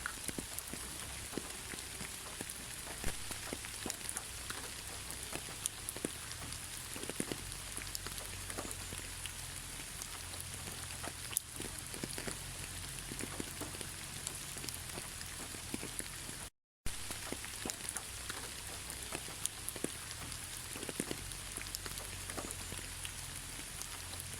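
Steady rain falling on a surface, an even hiss with many separate drops ticking through it. The sound cuts out completely for a split second about two-thirds of the way through.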